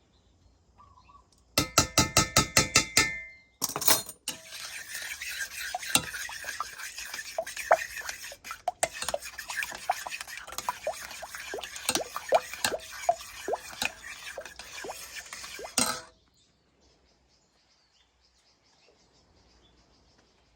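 Utensils clattering, clinking and scraping against a pan or bowl while chicken wings are stirred and tossed. It opens with a quick run of about ten ringing strokes, then a dense clatter that stops abruptly near the end.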